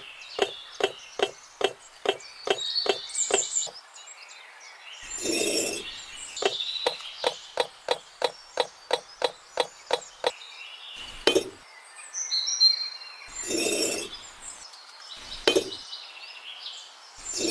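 Two runs of quick, light knocks, about three a second, like a small hammer tapping on wood, with a few duller thuds in between and birds chirping.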